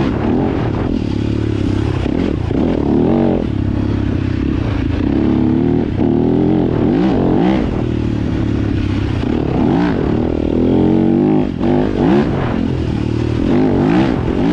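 Dirt bike engine, a Yamaha YZ250FX's single-cylinder four-stroke, revving up and down under throttle while riding, its pitch rising and falling every second or two.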